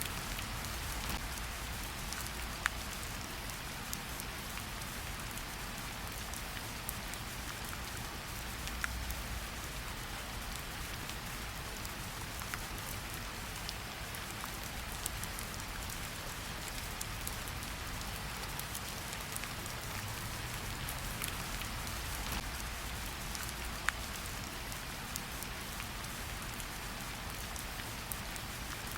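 Steady rain falling in a forest: an even hiss of rainfall with scattered individual drops ticking close by and a low rumble underneath.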